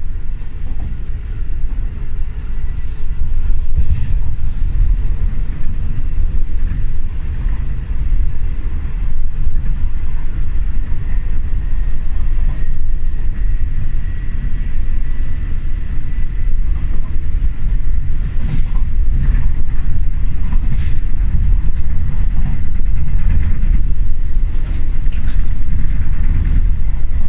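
Interior ride noise of an old passenger train carriage in motion: a steady loud low rumble with scattered clicks and rattles. A faint high whine rises in the middle.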